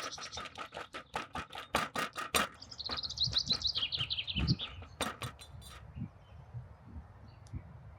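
A bird sings one short trill of rapid notes that falls in pitch, about three seconds in. Before it comes a quick run of sharp clicks or taps, with a few more just after.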